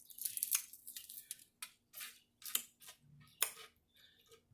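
A person chewing food close to the microphone: a string of short, irregular crunches, clicks and mouth smacks.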